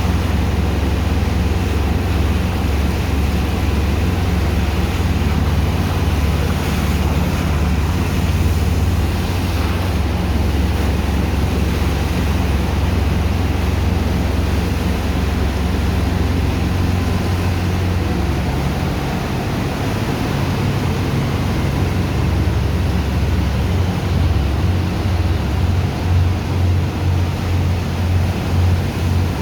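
Heavy engine of a sand-dredging pump running steadily with a deep rumble, over the rush of water and sand slurry. In the last few seconds the rumble throbs in regular pulses, a little more than one a second.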